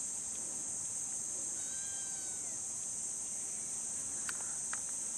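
Steady high-pitched insect chorus. A faint pitched call comes about two seconds in, and two short sharp clicks come near the end.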